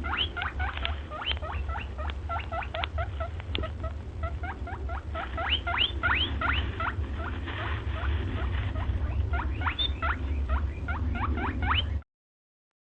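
Rapid, high squeaks from a small animal, several a second, each sweeping quickly down in pitch, over a steady low hum. The sound cuts off suddenly near the end.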